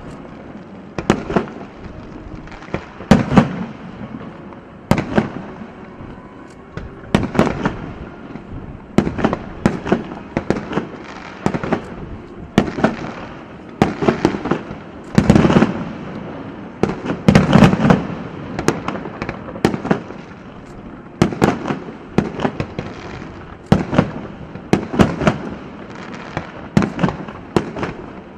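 Aerial fireworks shells bursting in a long, irregular series of sharp bangs, about one or two a second and sometimes in quick clusters, each with a short echoing tail.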